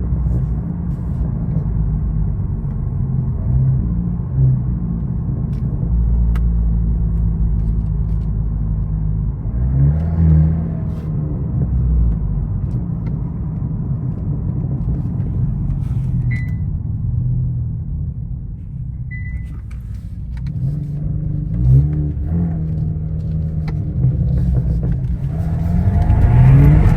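Genesis G70 2.0T's turbocharged four-cylinder engine, fitted with a bigger turbo, heard from inside the car while driving. It runs steadily, and its revs rise as it accelerates about ten seconds in, again a little past twenty seconds, and most strongly near the end.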